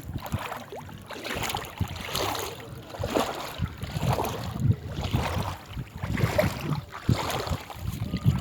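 Water splashing or lapping in surges about once a second, with wind buffeting the microphone as a low rumble.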